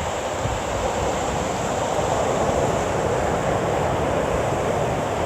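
Steady wash of surf on the shore, with wind rumbling on the microphone.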